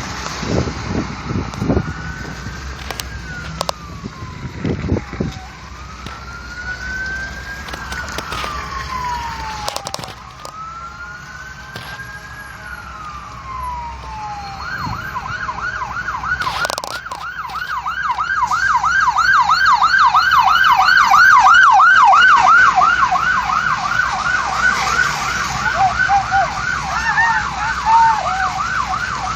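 Emergency vehicle siren in a slow wail, rising and falling about every four to five seconds, then switching about halfway through to a fast yelp and growing louder as it comes closer. Near the end a second siren joins in.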